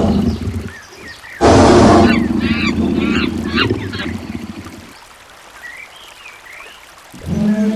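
Ducks quacking in a series of short calls, over two loud splashes and a rumble of water. A low, drawn-out pitched call begins near the end.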